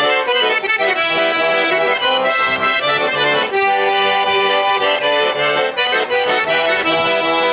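Russian button accordion (garmon) playing a chastushka tune as an instrumental break between sung verses, with held chords over a repeating bass.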